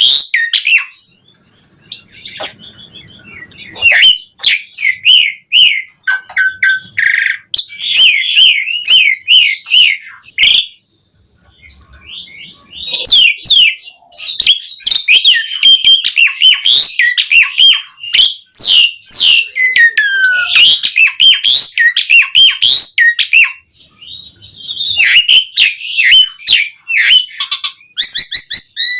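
Asian pied starling (jalak suren) singing a long, loud, varied song of whistles, chirps and quick rising and falling notes, broken by a few short pauses.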